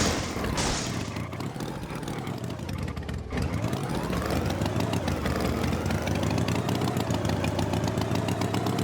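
Motor engine running, its pitch dipping and rising over the first few seconds, then holding steady.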